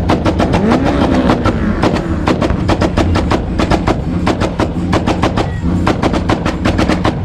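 A tuned car's engine held at steady revs on a two-step launch limiter, its exhaust firing a rapid string of loud pops and bangs, about seven a second.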